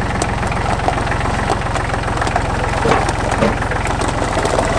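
Car engine running at a slow, steady idle as the vehicle creeps forward under light load, pushing another car. It gives an even low throb, with a few light clicks and knocks over it.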